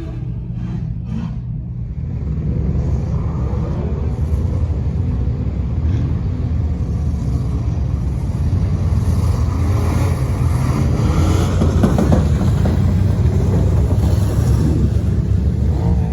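Truck engine running with a low, steady rumble, getting louder about two seconds in and then holding.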